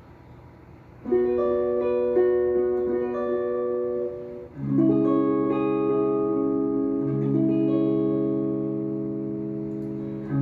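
Guitar playing three-note chords in B melodic minor: a chord struck about a second in and left ringing, then a second chord at about four and a half seconds that rings until another is struck near the end.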